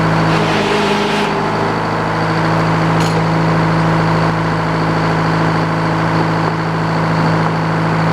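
Band sawmill cutting a board from a pine log, its engine running steadily under load with the blade's cutting noise over the hum.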